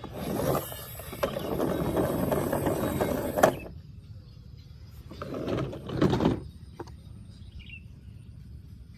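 Plastic toy vehicles being handled and pushed along, a rattling scrape for about three seconds that ends in a sharp click, then a shorter rattle.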